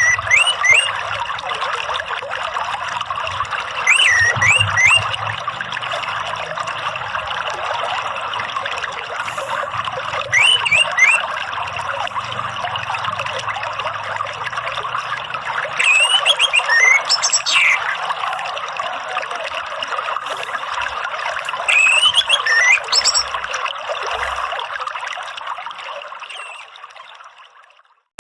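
Steady trickling of running water. Short whistled calls from an orange-headed thrush, each a quick rising and falling phrase, come about every six seconds. The sound fades out near the end.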